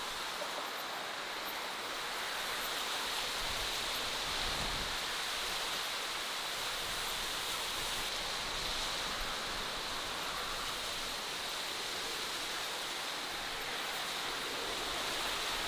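Steady, even rushing of flowing water, without breaks or changes.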